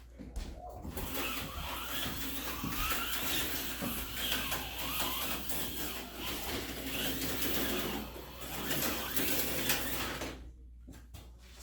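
HO-scale slot car running laps on plastic track: its small electric motor and gears whining, the pitch rising and falling with the throttle. It stops about ten seconds in.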